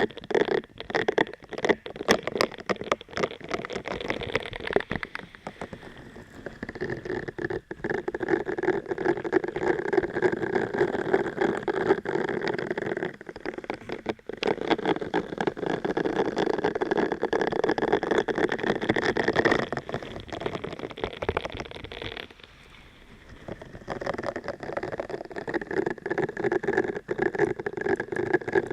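Close-miked ASMR scratching and rubbing on the microphone: a dense, rapid crackle with a hollow ring to it. It stops briefly twice, about halfway and again about three quarters of the way through.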